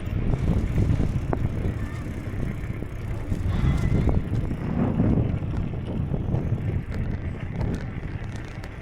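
Wind rumbling unevenly on the microphone of a camera on a moving bicycle, with a few light clicks.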